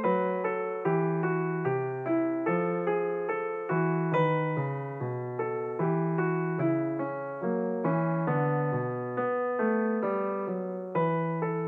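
Background piano music: evenly paced notes, each struck and then fading, with chords moving under a melody.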